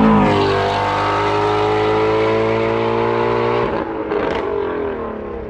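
Shelby GT350's 5.2-litre flat-plane-crank V8 under acceleration: the revs climb out of a gear change at the start, then hold steady. About three and a half seconds in, the note breaks off and the revs wind down.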